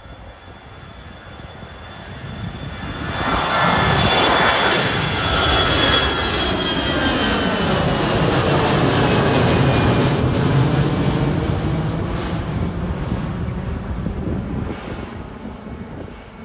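Airbus A321 jet airliner passing close on its departure, the engine noise swelling, holding loud, then fading away. A high engine whine falls steadily in pitch as the jet goes by.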